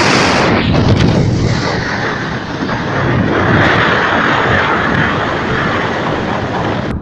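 Moving train heard from an open carriage window: a steady loud rush of wind and the train's running noise on the track. A hiss is strongest in the first half-second, and the sound changes abruptly just before the end.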